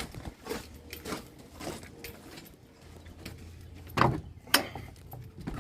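Footsteps walking at about two steps a second, with two louder knocks about four seconds in.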